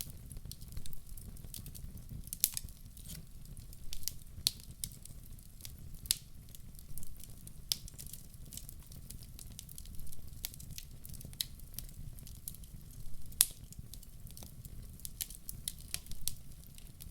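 Fire burning in a fireplace, crackling with irregular sharp pops over a low steady rumble; the loudest pop comes about three-quarters of the way through.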